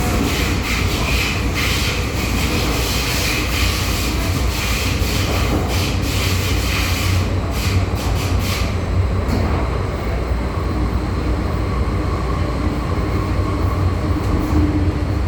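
MTR M-Train electric multiple unit running between stations in the underground section: a steady low rumble of wheels on rail with a hissing, clicking track noise that eases off about 8 to 9 seconds in.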